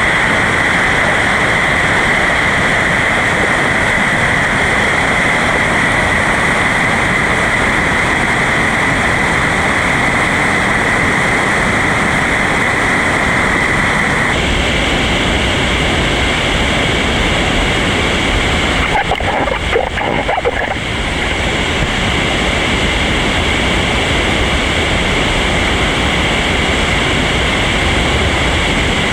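River rapids rushing steadily, with the river running high after heavy rain. The sound changes abruptly about fourteen seconds in, and there is a brief disturbance around twenty seconds.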